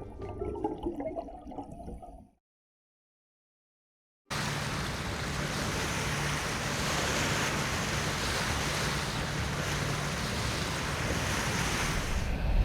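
Background music fades out, then a two-second gap of silence. After it comes a steady rush of water with a low, even hum, as from a boat under way on open water.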